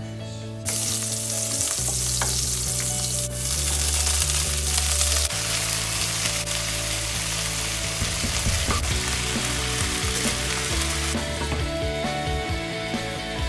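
Chicken feet frying in a hot nonstick wok with a loud, steady sizzle, stirred about by hand. The sizzle grows a little quieter near the end as a glass lid goes on.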